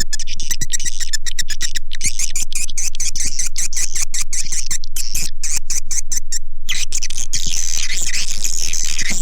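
Swiftlet calls from a lure recording for swiftlet houses: a fast train of sharp clicks, with high twittering chirps that become dense about seven and a half seconds in.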